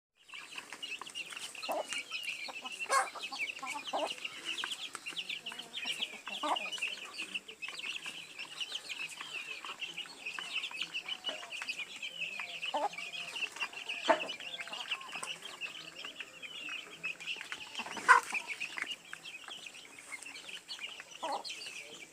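A large flock of poultry calling together: a dense, continuous chorus of high peeps and chirps, with louder single calls standing out every few seconds and one especially loud call near the end.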